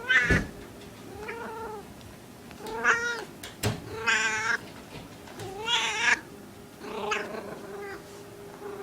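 Small female cat in heat calling: a series of about six drawn-out, wavering meows, one roughly every second and a half, the typical calling of a cat in estrus. A single sharp click falls between two of the calls.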